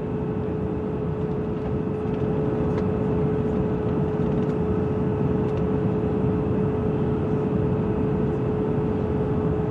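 Steady cabin noise of a Boeing 787-8 airliner in flight: an even rushing of engine and airflow noise with a single steady hum tone.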